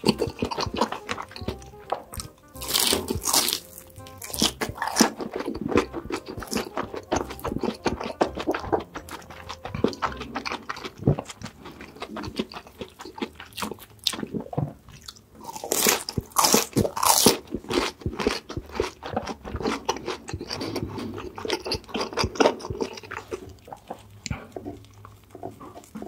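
Close-miked crunchy biting and chewing of food, a dense run of crackles and crunches, loudest about three seconds in and again past the middle, over background music.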